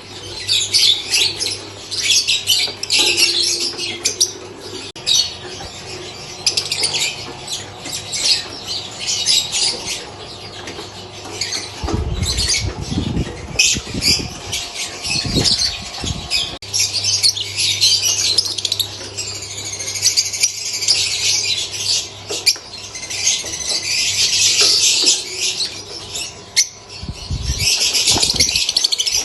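Lovebirds chattering: a dense, continuous run of short, high-pitched chirps and squawks. Bursts of low rumble come around the middle and again near the end.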